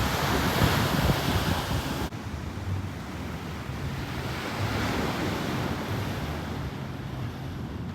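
Sea waves and wind buffeting the microphone, a steady rushing noise, with an abrupt change about two seconds in.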